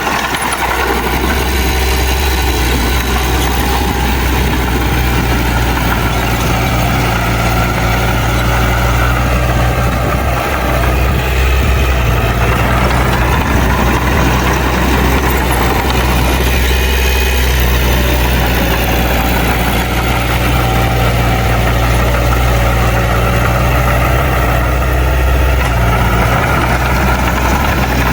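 Heavy diesel engine of earthmoving machinery running steadily with an even, low drone.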